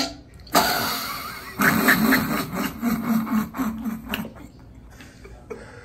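A long rasping fart that breaks into short sputters near the end.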